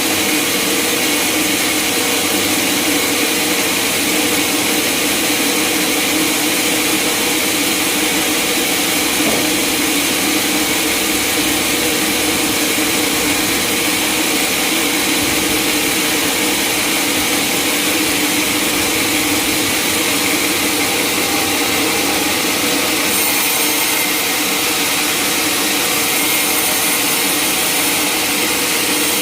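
Sawmill saw running steadily, sawing through a log, with a constant whine.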